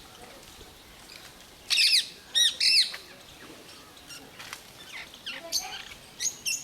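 Lovebirds calling: three loud, shrill squawks in quick succession about two seconds in, then softer scattered chirps.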